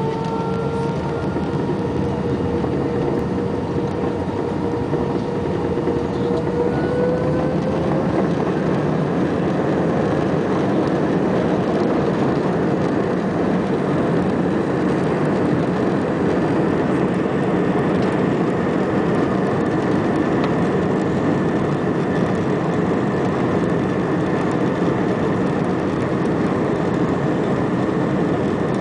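Airbus A320 jet engines spooling up to takeoff thrust: a whine that rises in pitch over the first several seconds, giving way to a steady, loud rumble and hiss of the engines at full power during the takeoff roll.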